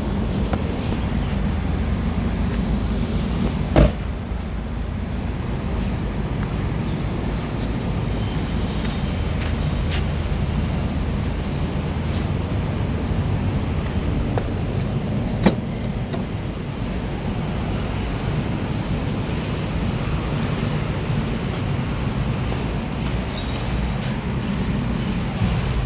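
A car sound: a steady low rumble with two sharp clicks, one about four seconds in and one about fifteen seconds in.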